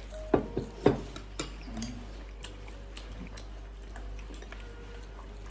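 Eating at a dinner table: a few sharp clicks of chopsticks against dishes in the first second and a half, then quieter chewing and occasional small ticks.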